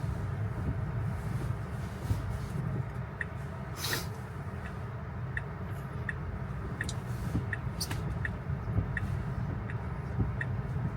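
A Tesla's turn-signal indicator ticking at an even pace, about three ticks every two seconds, starting a few seconds in, over the steady low hum of the car's cabin. There is a brief swish about four seconds in.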